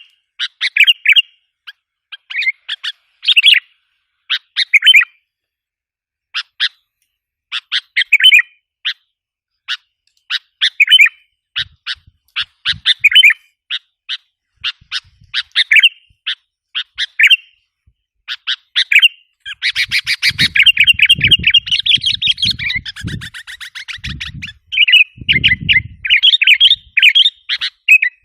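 Sooty-headed bulbul lure calls: quick clusters of sharp chirping notes repeated every second or two, breaking into a dense, continuous agitated chatter about two-thirds of the way through.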